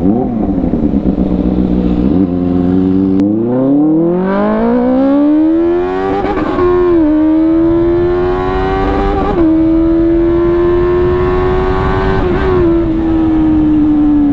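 Benelli 600i's inline-four engine and exhaust under load. The pitch climbs steadily from about three seconds in, drops sharply at an upshift around seven seconds, then holds nearly steady and sinks gently near the end as the throttle eases.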